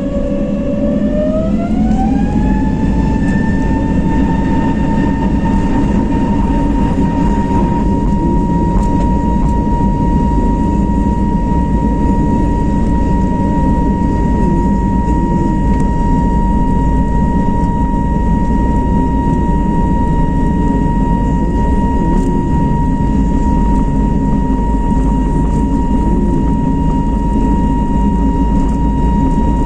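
Airbus A321neo's CFM LEAP-1A turbofans spooling up to takeoff thrust, heard from inside the cabin. A whine rises in pitch over the first few seconds, then holds steady over a loud rumble through the takeoff roll.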